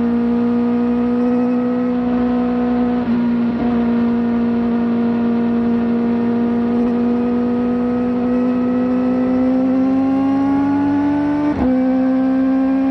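Kawasaki ZX-4RR's 399 cc inline-four, fitted with a slip-on exhaust, running hard at high revs. The pitch climbs slowly, with a brief dip about three seconds in, and rises faster near the end. It then falls sharply at a quick gear change and holds steady.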